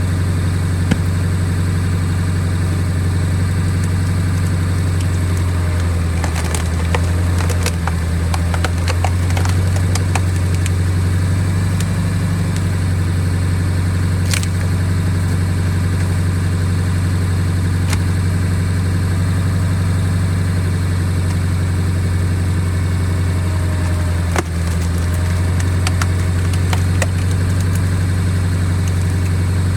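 Truck engine held at about 1500 rpm in second gear, turning a screw-cone log splitter bolted to a wheel hub: a steady engine drone that dips briefly a few times as the cone takes load, with scattered sharp cracks and snaps of wood splitting.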